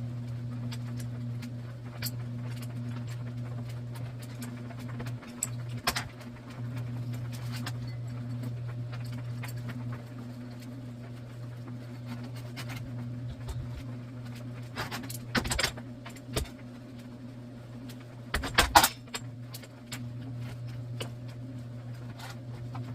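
A steady low hum with a few sharp metallic clinks and rattles, the loudest near the end.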